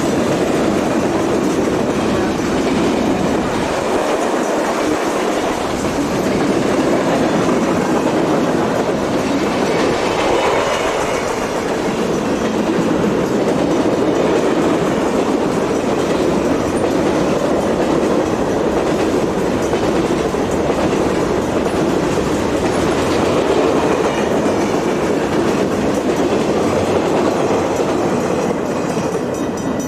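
Southern Pacific freight train rolling past, a steady, unbroken noise of wheels on rail from the passing cars.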